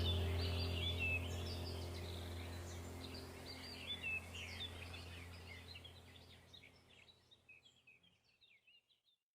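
Small birds chirping and twittering over a steady low hum. The whole sound fades out gradually to silence near the end.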